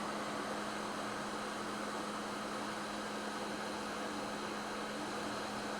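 Steady fan hiss with a constant low hum from electric bench equipment running, unchanging throughout.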